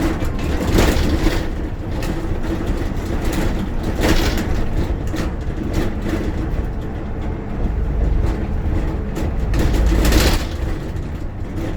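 Inside a moving bus: steady low engine and road rumble with a constant hum. Brief louder rattles come about a second, four seconds and ten seconds in.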